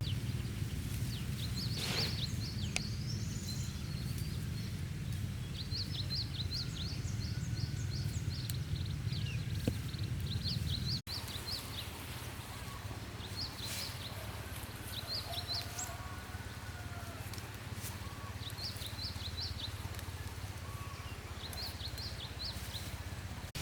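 Small birds chirping in short repeated bursts of high calls over a steady low rumble.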